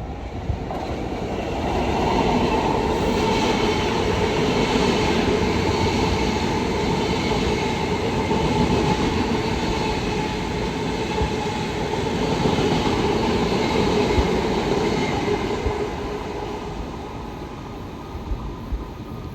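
Long Island Rail Road train going by on the tracks: steady running noise of wheels on rail with a few held tones over it, building about two seconds in and fading over the last few seconds.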